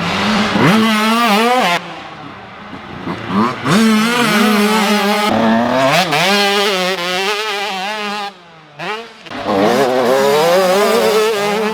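Several 85cc two-stroke motocross bikes racing past, engines revving up and dropping off again and again, with a short lull a little after eight seconds.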